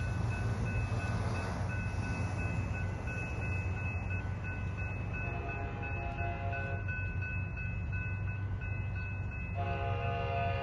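Train horn sounding two blasts, a shorter one about halfway through and a longer one near the end, each a chord of several notes over the steady low rumble of a diesel train.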